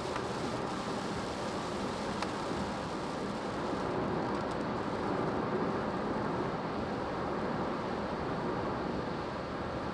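Steady cabin noise of a car driving on a rain-wet road, heard from the back seat: an even hiss of tyres on the wet road over a low running hum.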